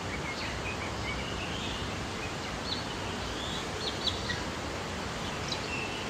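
Birds chirping in short, scattered calls, with a quick run of chirps in the first second and a few thin, high ticks later, over a steady background hiss.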